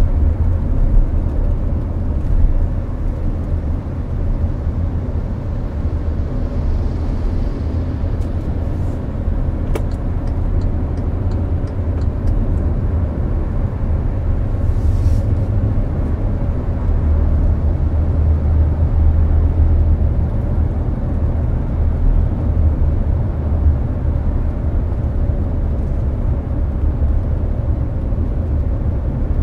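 Hyundai Avante (Elantra) at highway speed, heard from inside the cabin: a steady, low road-and-engine rumble with the air-conditioning fan's rush over it.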